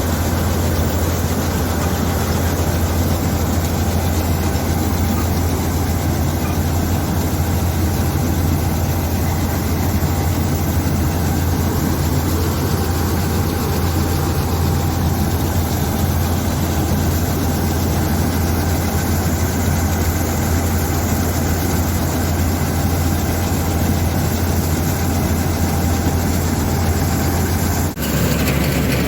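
Combine harvester's diesel engine running steadily with a deep, even hum. There is a brief break near the end, after which the hum sits a little lower.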